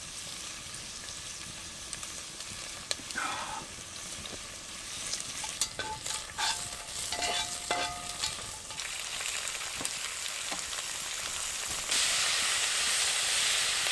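Onions frying in oil in a Dutch oven over a campfire, a steady sizzle. About two seconds from the end the sizzle suddenly gets louder and stays loud, as more food, likely the diced beef, goes into the hot oil.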